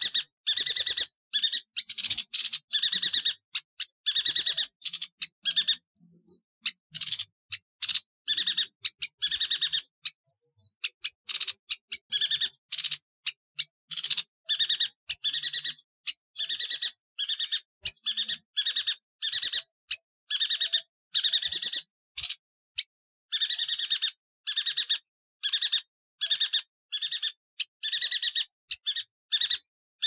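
A yuhina calling: short, sharp, high notes repeated in quick succession, with brief pauses.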